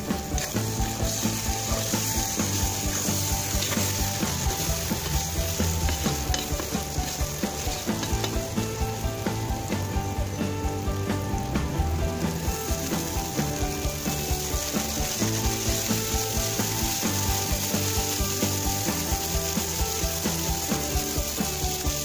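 Carrots frying in oil in a cast-iron kazan, sizzling steadily while being stirred. About halfway through, water goes into the hot pot and the sizzle turns brighter and louder as it starts to boil. Background music with a steady beat plays throughout.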